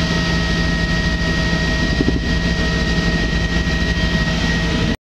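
Helicopter cabin noise in flight: a steady drone of engine and rotor with a thin, steady high whine over it. It stops abruptly just before the end.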